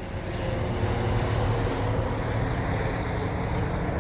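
Aircraft flying low overhead: a steady low engine rumble that grows louder just after the start and then holds.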